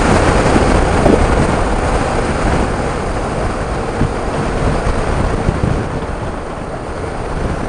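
Motorcycle riding at speed: a steady rush of wind on a helmet-mounted microphone over the running engine, getting a little quieter in the last couple of seconds.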